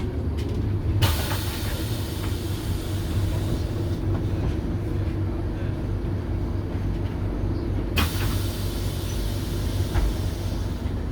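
Scania DC9 five-cylinder diesel of a Lahti Scala bus running steadily with a whine. A loud hiss cuts in about a second in and fades over several seconds, then cuts in again near the end.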